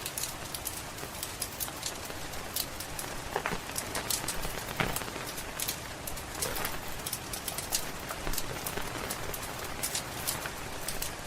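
Steady rain hissing with a wood fire crackling over it: frequent irregular sharp pops and snaps.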